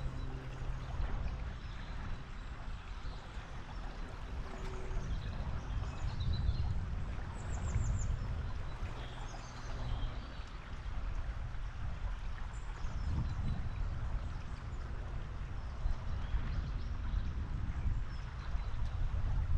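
A running river rushing steadily. Faint bird chirps sound over it in the middle.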